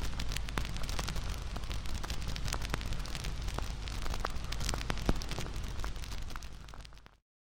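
Wood fire crackling, with many sharp pops over a steady hiss; it fades out and stops near the end.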